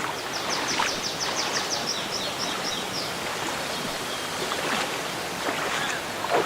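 Steady rush of running water. A bird trills a rapid run of high notes over it for the first three seconds, slowing toward the end of the run, and a soft knock comes near the end.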